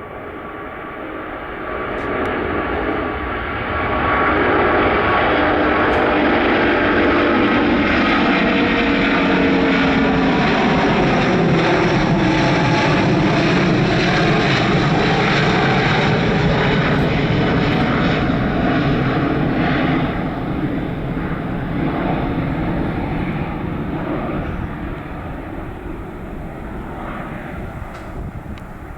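An airliner passing close by. Its engine noise swells over the first few seconds and stays loud for about fifteen seconds, with tones sliding down in pitch as it goes past, then it fades.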